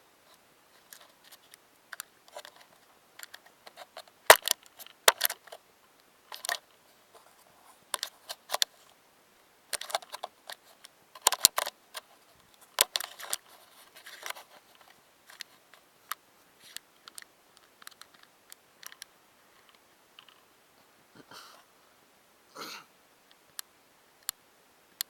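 Irregular sharp clicks and taps, the strongest about four seconds in and between eleven and thirteen seconds in, with a short sound near the end.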